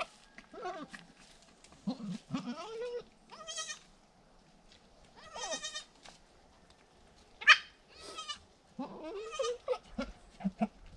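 Goats bleating, a newborn kid and its mother: a series of separate calls, several high-pitched and a few lower, deeper ones, with short gaps between them.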